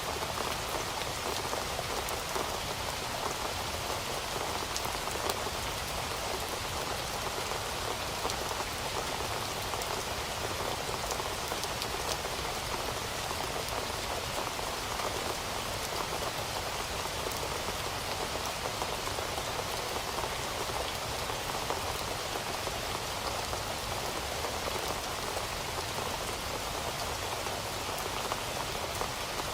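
Heavy rain falling steadily on a surface, a dense even hiss dotted with countless fine drop patters.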